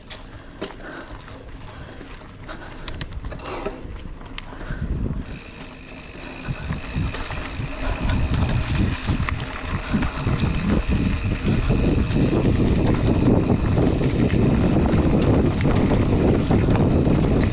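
Wind rushing over the action camera's microphone and tyres rumbling over the trail as the mountain bike gathers speed, growing steadily louder through the first half and staying loud. A steady high whine runs over it from about a third of the way in.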